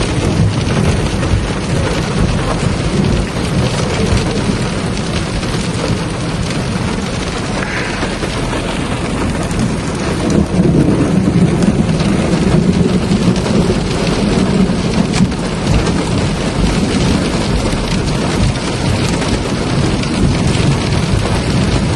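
Heavy thunderstorm rain falling steadily, with rolling thunder rumbling beneath it; a louder, deeper peal of thunder swells about halfway through and rumbles on for several seconds.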